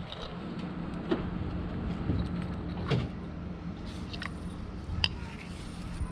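Scattered sharp metallic clicks and clinks, a few seconds apart, over a steady low hum.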